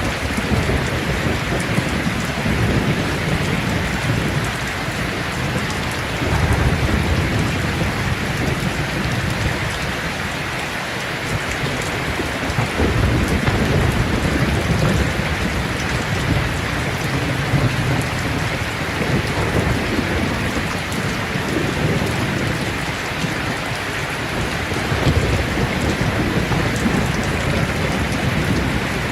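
Heavy rain falling steadily on a tin roof, with rolling thunder rumbling low several times.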